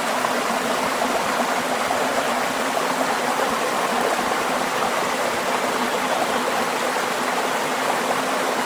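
Jet pump spraying a steady jet of water to wash a window air conditioner, a constant rushing hiss with a faint even hum beneath it.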